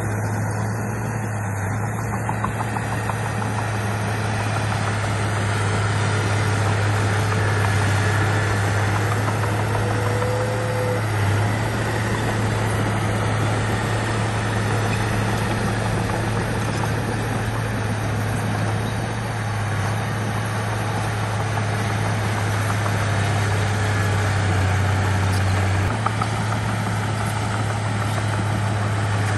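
Bulldozer's heavy diesel engine running steadily at an even pitch, with no clear changes in revs.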